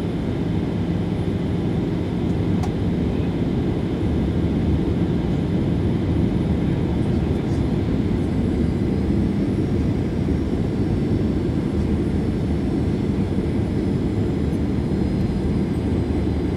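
Steady, deep cabin roar inside a Boeing 737-800 in flight: airflow over the fuselage mixed with the hum of its CFM56 jet engines.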